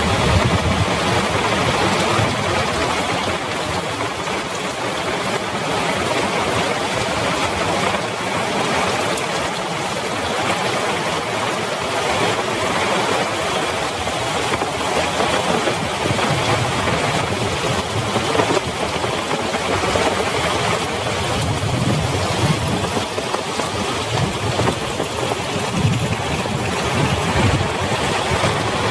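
Heavy rain falling steadily, an even hiss, with an uneven low rumble underneath.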